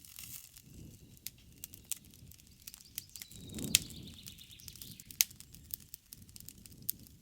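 Wood campfire crackling: a steady run of sharp snaps and pops over the low rush of the flames, with a louder pop about halfway through and another about five seconds in.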